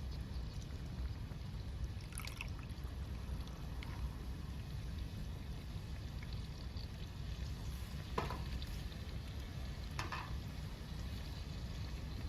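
Wood fire crackling in a small fire stand: a few sharp pops a couple of seconds apart over a steady low rumble.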